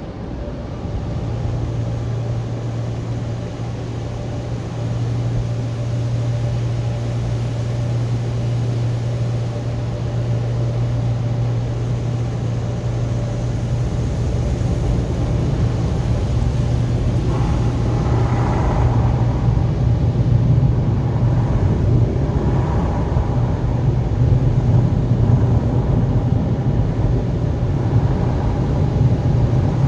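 Automatic car wash running: a steady low mechanical rumble that grows slightly louder, with a few louder swells of noise around the middle.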